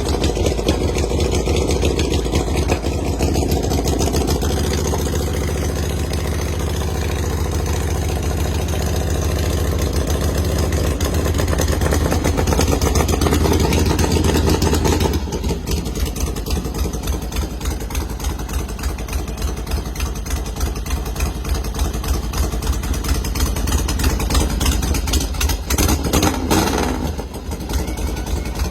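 1979 Harley-Davidson Ironhead Sportster's air-cooled V-twin engine running at idle. About halfway through the sound changes to a slower, even pulsing.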